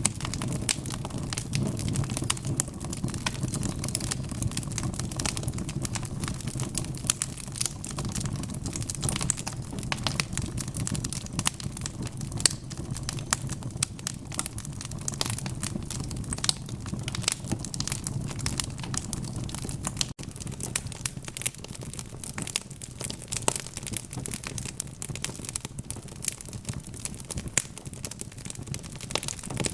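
Log fire in a fireplace crackling: dense, irregular pops and snaps over a steady low rumble of the burning wood.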